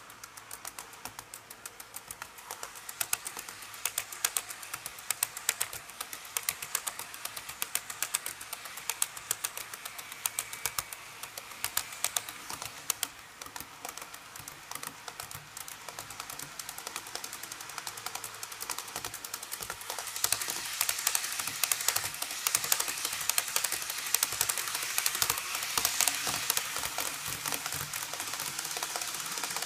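Tomix model Kyushu Shinkansen train running on its track: a fast, irregular clatter of small clicks from the wheels over the rail joints, over a light whirring hiss. It grows louder about twenty seconds in.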